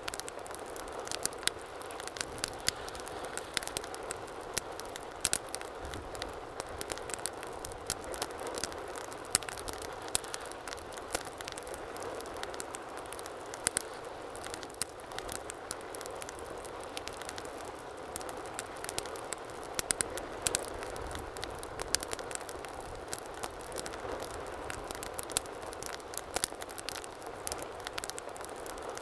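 Wood fire burning in a fireplace: a steady soft rush of flames with frequent sharp crackles and pops scattered irregularly throughout.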